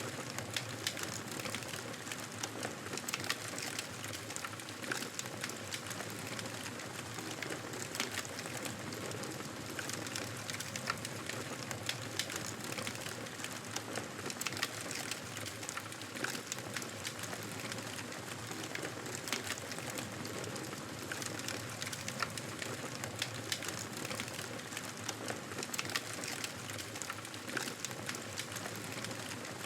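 Wood fire crackling in a fireplace: a steady soft hiss with frequent small pops and snaps throughout.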